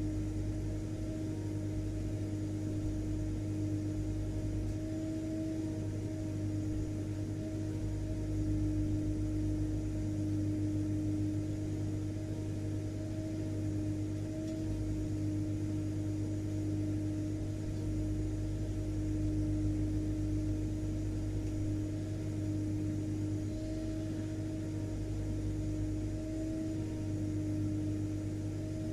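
Vacuum cleaner (hoover) motor running continuously: a steady low hum with a constant mid-pitched whine over it.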